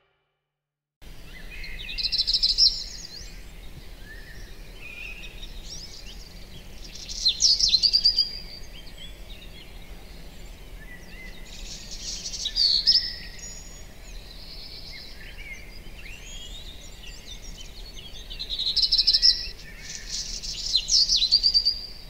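A songbird singing repeated short phrases of quick chirps, trills and sweeping notes every few seconds, over a steady faint outdoor background noise. It begins about a second in.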